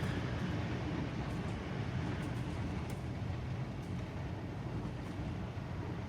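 Engine of a mid-1980s Ford motorhome running steadily as it drives slowly, heard from inside the cab as a low rumble with road and cab noise and a few light ticks.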